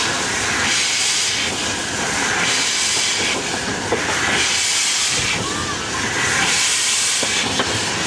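Narrow-gauge passenger train rolling slowly along the track, with a hiss that swells and fades about once a second.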